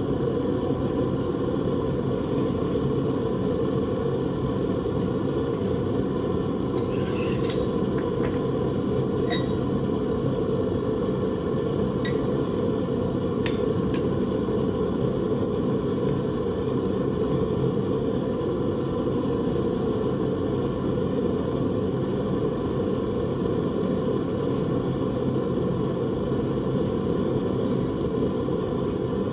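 A steady low roar, with a few light metallic clinks that ring briefly about a third of the way through.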